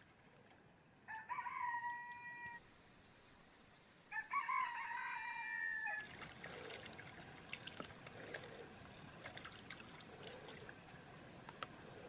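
A rooster crows twice, each crow a held call lasting about two seconds. After the second crow comes a steady wash of noise with scattered clicks.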